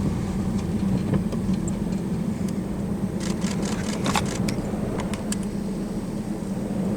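Car engine idling steadily, heard from inside the cabin, with a few light clicks and rattles about three to four seconds in.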